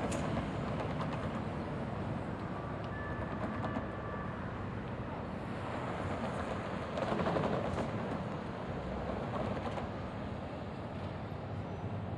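Light-rail train running through the station: a steady rumble with a faint high whine for a moment, swelling about seven seconds in.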